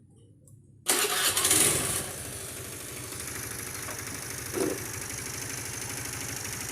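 Honda Beat FI scooter's single-cylinder engine started about a second in, running loud for a moment before settling into a steady idle. The idle is very noisy, like a bad piston or a rattling cam chain, but the cause turns out to be a loose spark plug.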